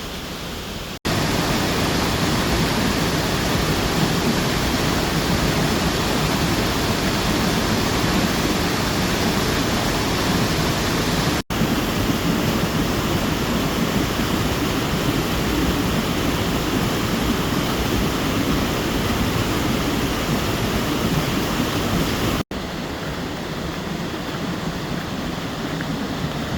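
Steady rushing of a waterfall, louder from about a second in and softer again near the end, broken by three sudden split-second dropouts.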